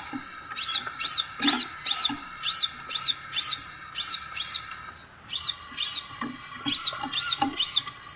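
Scarlet minivet calling: a quick series of short, high, up-and-down whistled notes, about two or three a second, with a brief pause about five seconds in.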